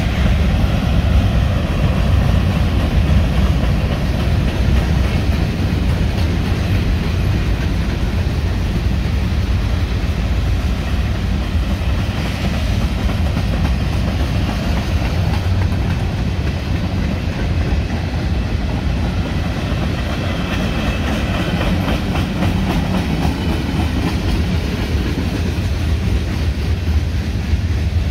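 Freight cars of a mixed freight train rolling past: a steady, loud rumble of steel wheels on the rails, with light clicking from the wheels.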